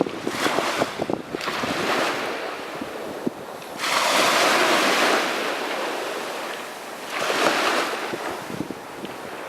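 Sea surf on a beach: a wave breaks heavily about four seconds in and washes out, and a smaller one breaks near the end, with frothy crackling wash in between.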